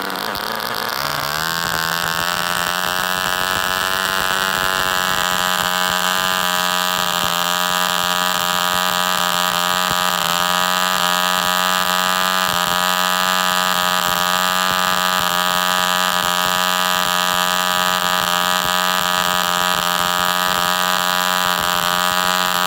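Small two-stroke gasoline model engine with spark ignition, running loud and steady. It picks up speed over the first couple of seconds, then holds an even speed.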